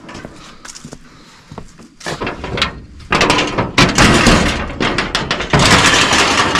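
Stiff metal door on an abandoned locomotive being forced open: a few knocks, then from about three seconds in loud scraping and banging of a door that has not been opened in a long time.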